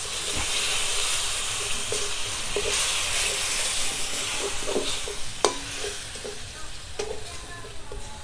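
Spice masala sizzling in a metal kadai after a little water is added, as it is stirred and cooked down with a spatula that knocks and scrapes against the pan now and then. The sizzle is strongest in the first few seconds and dies down toward the end.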